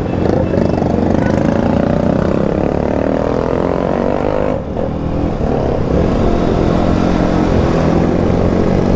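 KTM motorcycle engine running on the move, its pitch drifting up and down as the revs change, with a brief dip in the sound about halfway through.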